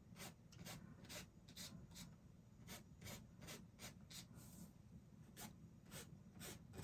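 Paintbrush bristles brushing across a canvas in short, faint strokes, about two or three a second.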